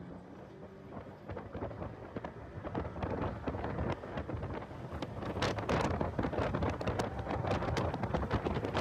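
Wind buffeting and crackling on the microphone of a track car at speed, with the car's engine and road noise faintly underneath. The buffeting grows louder about halfway through.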